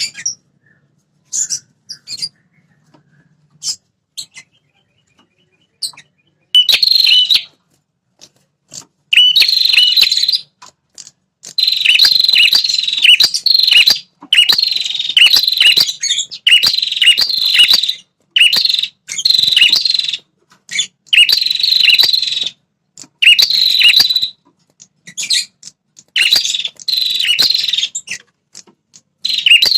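Red-headed prenjak (a prinia-type songbird) singing its loud territorial song. A few short high notes open it, then fast chattering phrases about a second long repeat roughly every two seconds.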